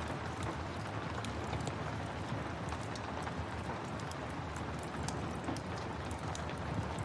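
Steady rain mixed with the crackle of a wood fire: a continuous even hiss scattered with frequent small sharp pops and clicks.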